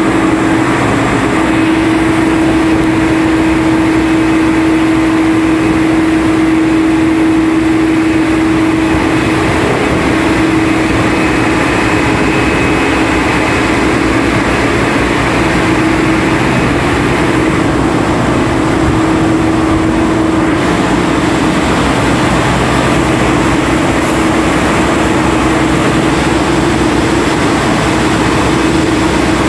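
Engine machinery on an ore-suction dredge boat running steadily and loudly, a constant hum under a thick wash of noise.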